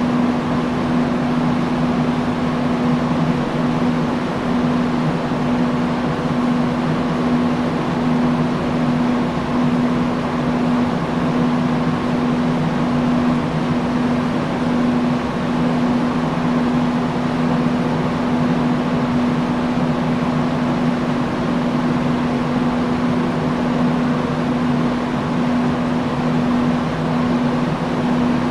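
Industrial fan running steadily: a constant rush of air with a steady low hum.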